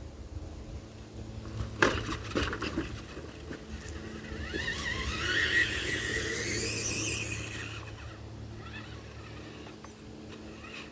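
Tamiya TXT-2 RC monster truck's motor and drivetrain whining as it throttles up, the pitch wavering and rising for a few seconds, with a sharp crack about two seconds in as the truck hits or snaps a stick.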